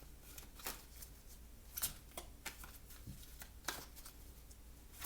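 Oracle cards being handled: a few faint, scattered clicks and slides of card against card, with a low hum under them.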